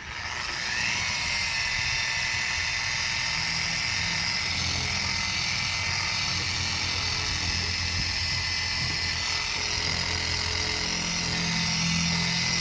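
Small power sander running steadily against a plastic headlight lens, wet-sanding it with a 1200-grit disc. Its pitch rises in about the first second as it spins up.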